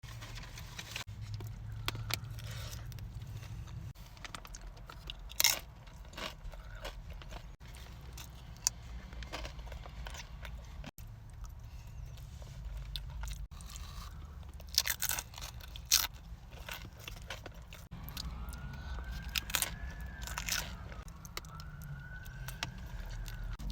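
Close-miked eating: chewing with sharp crunching bites scattered throughout. A faint siren wails for a few seconds near the end, over a steady low hum.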